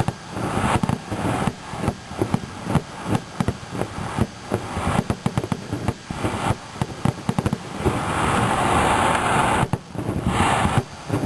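Fireworks shells bursting in rapid, irregular succession, a dense run of sharp bangs. Near the end the bangs give way to a steady hissing crackle for about two seconds.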